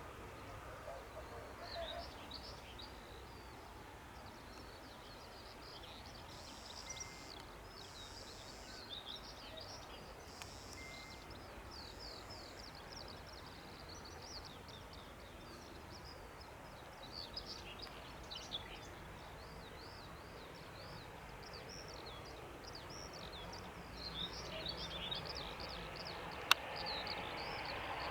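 Faint birdsong: many short, quick chirps and trills go on throughout over a low outdoor background. Near the end there is a single sharp click, and a broad noise starts to build.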